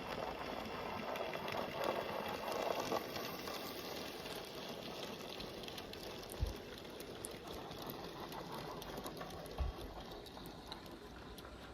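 N gauge model locomotive running along the track: a fine crackling rattle of small wheels and motor that slowly fades, with a couple of faint knocks.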